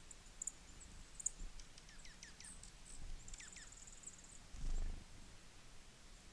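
Small songbirds calling at a feeder: high thin chips, a brief high trill, and several quick downward-slurred notes. A short low thump, the loudest sound, comes a little past two-thirds of the way through.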